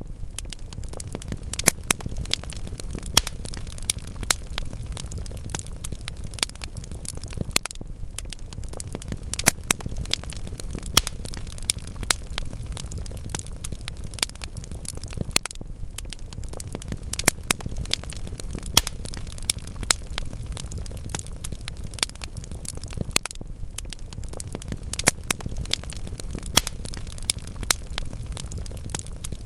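Logs burning in a fireplace: a steady low rumble of flame with frequent sharp crackles and pops, scattered irregularly.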